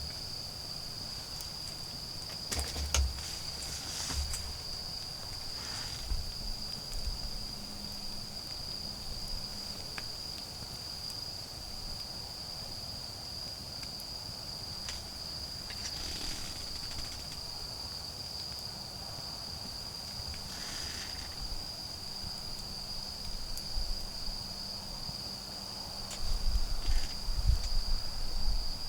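Autumn insects trilling in one steady, unbroken high chorus. A few brief crackles come through it, and near the end there is louder low rustling and knocking.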